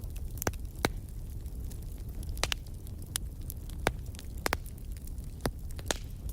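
Fire in a fireplace crackling: about ten sharp, irregular pops and snaps over a steady low rumble of the flames.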